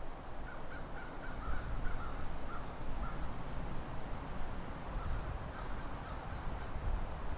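A bird calling a quick series of about ten short, evenly spaced notes, then a few fainter calls later, over a steady low outdoor rumble.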